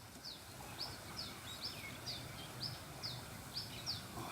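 A small bird chirping over and over, short high notes that slide down in pitch, about two to three a second.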